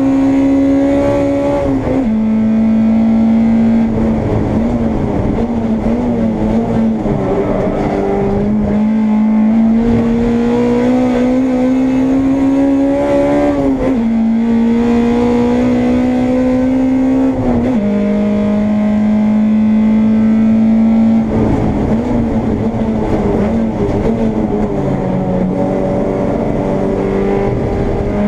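Honda Integra race car engine at full throttle, heard from inside the car: its pitch climbs steadily and drops sharply at upshifts, about 14 s in and again about 18 s in. In between come rougher stretches where the revs waver and fall, around 4 to 9 s and again after about 21 s.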